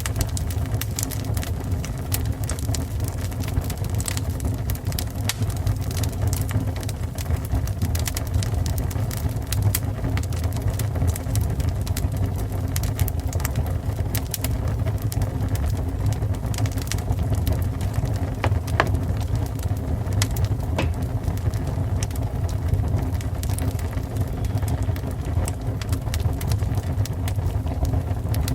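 Fire burning with a steady low rumble and frequent sharp, irregular crackles and pops.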